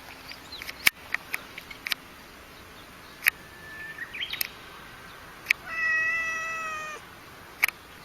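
A domestic cat meows once, a drawn-out call of about a second and a half that falls slightly in pitch, with scattered sharp clicks before and after it.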